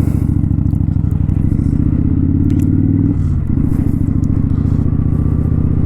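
Kawasaki Vulcan 900 Custom's V-twin engine running under way, its pitch creeping up and then dipping briefly about halfway through before it settles steady again.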